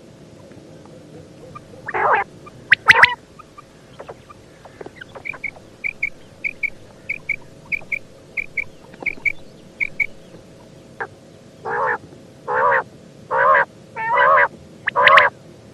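Female common quail calling: a run of short, high paired notes, then a series of harsh, rasping calls about 0.7 s apart. This is the female call that hunters use to lure male quail.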